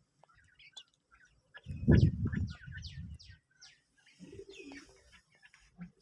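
A flock of caged quails chirping, with many short, high, falling calls throughout. A louder low sound comes in about two seconds in and lasts a second or so.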